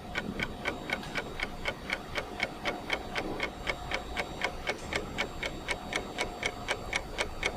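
Clock ticking steadily, about four ticks a second, used as a countdown sound effect during a riddle's thinking time.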